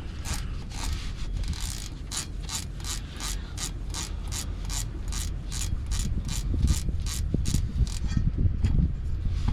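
Ratcheting wrench clicking steadily, about three to four clicks a second, as an 11 mm driveshaft bolt is backed out. The clicking thins out near the end among a few low knocks.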